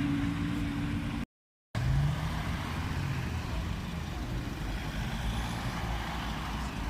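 Car engine running at low revs, broken off by a moment of dead silence just over a second in; after it comes a short engine note and then a steady din of street traffic noise.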